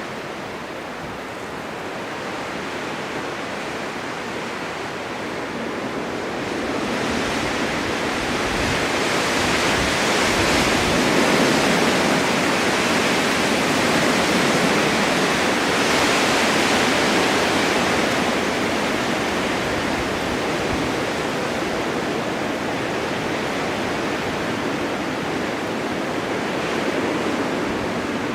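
Blizzard wind driving blowing snow: a steady rushing noise that swells into a strong gust about a quarter of the way in and eases off somewhat in the later half.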